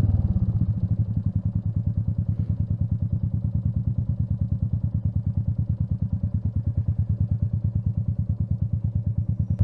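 Royal Enfield Meteor 350's single-cylinder engine idling with a steady, even, rapid thump.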